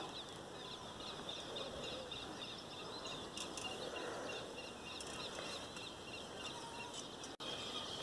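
Birds chirping in a busy, continuous chorus over a faint outdoor haze. The sound cuts out for an instant about seven seconds in.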